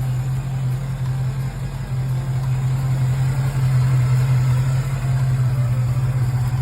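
A car engine idling steadily with an even, low hum.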